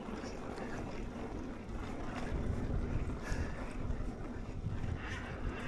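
Wind buffeting the microphone of a camera riding along on a mountain bike, with the rumble of the bike rolling over a dirt trail and a few faint ticks.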